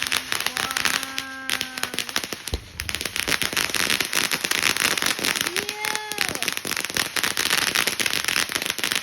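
Fireworks crackling densely and without a break, a rapid patter of countless small pops. There is a low thump about two and a half seconds in, and two short held tones, one near the start and one about six seconds in.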